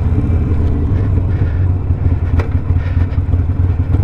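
Harley-Davidson Sportster Iron 1200's 1200 cc V-twin, fitted with a Two Brothers 2-into-1 exhaust, running steadily under way with a deep low rumble. There is a single sharp crack a little over two seconds in.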